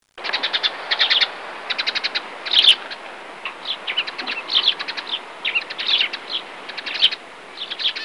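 Small birds chirping: quick runs of short, high chirps, several a second, with a few louder calls, over a steady background hiss. It starts abruptly just after the beginning.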